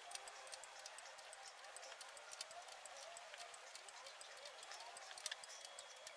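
Faint, rapid, irregular clicking from a ratchet wrench as engine bolts are tightened.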